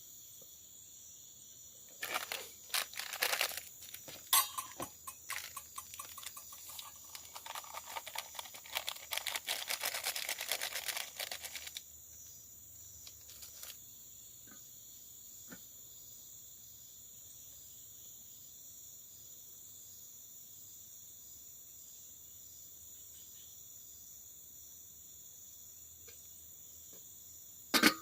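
Steady, high-pitched drone of forest insects such as crickets or cicadas. Over it comes a spell of close rustling and clicking handling noises lasting several seconds, and one sharp knock right at the end.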